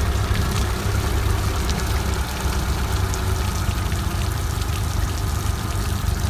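Suzuki DF70 four-stroke outboard motor idling steadily, with a low, even hum and water splashing and trickling.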